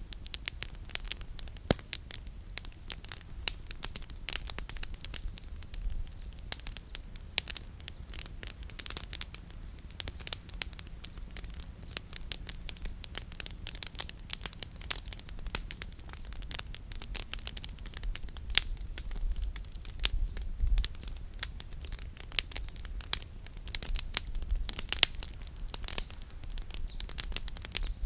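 Campfire crackling and popping: burning firewood giving off many sharp, irregular pops, over a low rumble.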